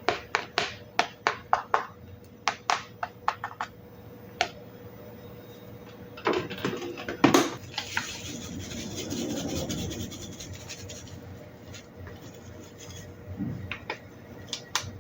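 Dishes and cutlery clinking and clattering: a quick run of sharp clinks over the first few seconds, a few louder knocks about halfway, then a few seconds of scraping before occasional soft knocks.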